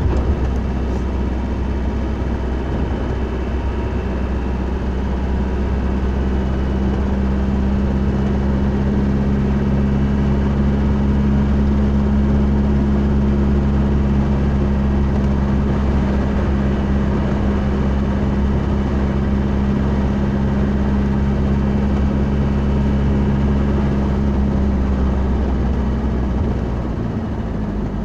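A vehicle's steady engine and road rumble with a constant low hum. The hum drops and fades near the end.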